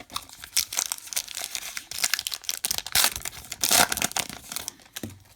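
A baseball card pack's wrapper being torn open and crinkled: a dense run of sharp crinkles and rips, loudest around three and nearly four seconds in.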